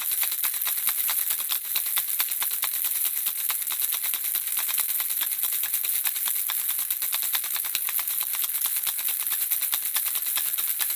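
Handheld baby rattle shaken steadily, its small beads clicking rapidly against the plastic shell in a dense, continuous patter.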